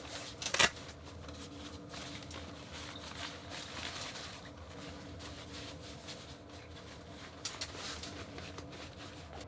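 Rustling and light clicks of fishing gear being handled, with one sharp knock about half a second in, over a steady low hum.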